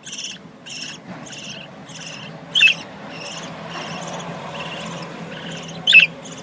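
Budgerigars chirping: a steady run of raspy high chirps, about two a second, broken twice by a short, loud, sharp budgie call.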